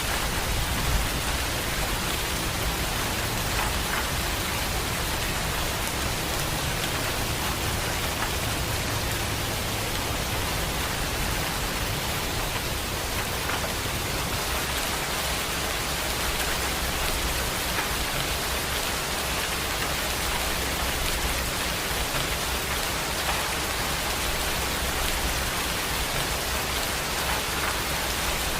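Heavy rain falling steadily: a dense, even hiss of rain with faint scattered drop ticks and a low rumble underneath.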